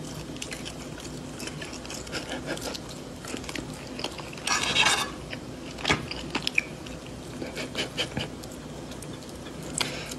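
Chewing and crunching food, with small clicks of a fork and a louder crunch about four and a half seconds in, over a steady low hum.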